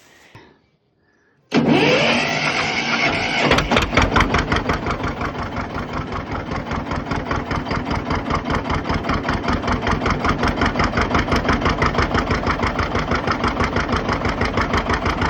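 An engine cranks on its starter for about two seconds, catches, and settles into a steady idle with an even, rapid pulse.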